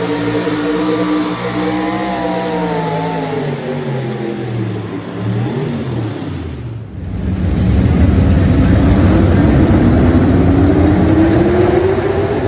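Small-block V8 four-wheel-drive pulling truck's engine at wide-open throttle, loud and dense, its pitch climbing steadily over the last few seconds. Before that a quieter sound of wavering, sinking pitch drops away about seven seconds in, just before the loud engine comes in.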